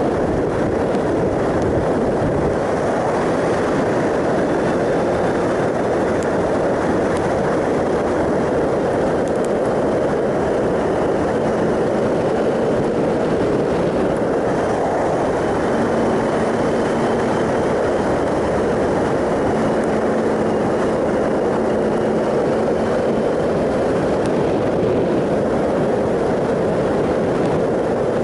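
Wind rush and tyre and road noise over the 2007 Triumph Sprint ST 1050's three-cylinder engine at a steady cruise, heard from the moving motorcycle. A faint steady engine hum comes and goes a few times.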